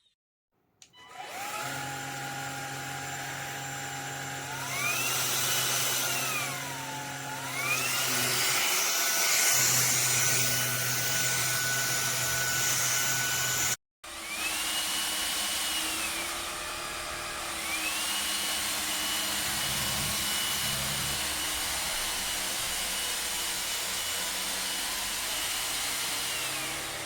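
The brushless motor of a MONSGA cordless stick vacuum is running with a steady whine that glides up and down in pitch several times. The sound breaks off for a moment about halfway through, then runs on again and stops at the end.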